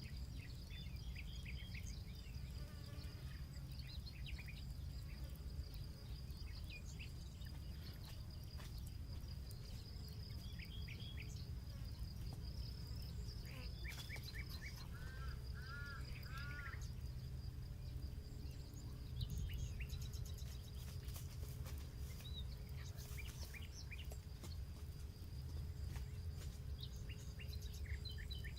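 Outdoor rural ambience: many short bird chirps, with a run of arching chirps about halfway through, over a steady high insect drone and a low rumble. Scattered sharp crackles from a campfire.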